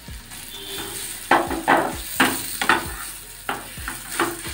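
Ground green pea paste sizzling in hot oil in a kadai, over a steady frying hiss. A spatula scrapes and pushes the paste around the pan in about six quick strokes from about a second in.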